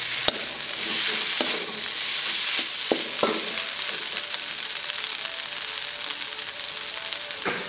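Fried tempe gembus cubes stir-fried in spice paste in a pan: steady sizzling of hot oil, with a spatula now and then knocking and scraping against the pan.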